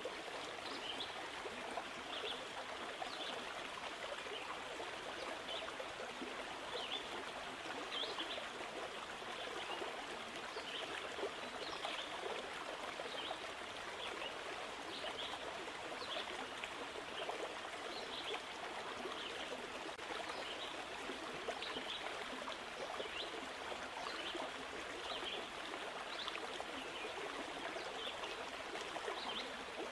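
Steady running water of a stream, flowing and trickling evenly, with small bright splashes flicking in every second or so.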